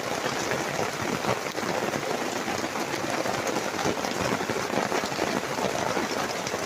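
Heavy rain coming down hard on a gazebo canopy overhead: a dense, steady rush of countless drop impacts.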